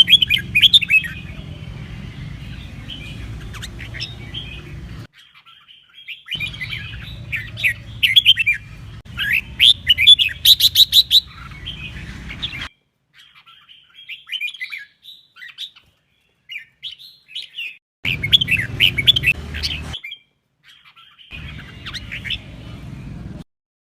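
Red-whiskered bulbul singing bursts of quick, chattering, up-and-down whistled phrases, with brief breaks between passages. A steady low hum lies under the louder stretches.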